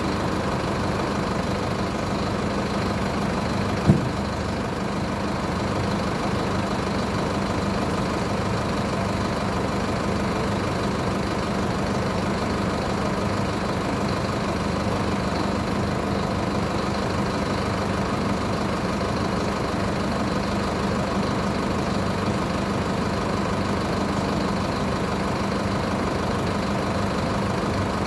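Mercedes-Benz OF-1722 bus's diesel engine idling steadily while parked, with a single short knock about four seconds in.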